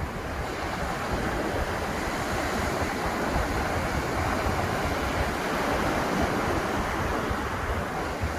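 Ocean surf breaking on a beach, a continuous wash of waves that swells about a second in, with some wind noise on the microphone.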